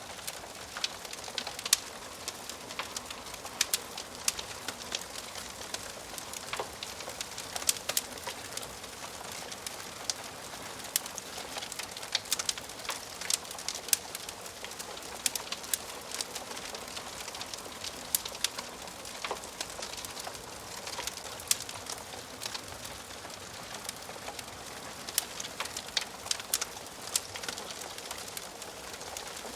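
Wood fire crackling in a fireplace: a steady hiss of burning with frequent irregular pops and snaps from the logs.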